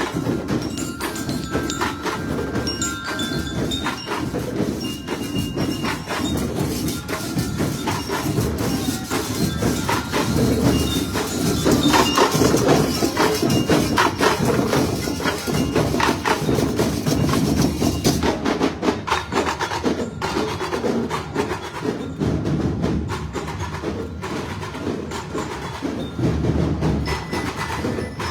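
Street parade percussion music: dense, fast strikes with short bell-like tones over them, loudest about halfway through.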